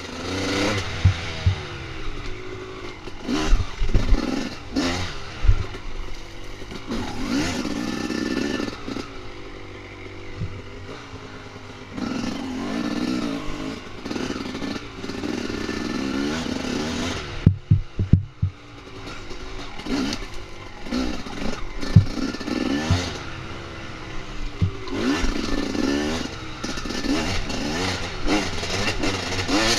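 Dirt bike engine revving up and dropping back again and again, with clatter and sharp knocks throughout, a quick cluster of knocks about eighteen seconds in.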